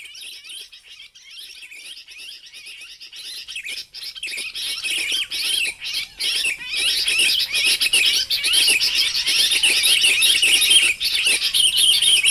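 Rapid, high chattering calls of ciblek (bar-winged prinia), faint at first and much louder from about four seconds in.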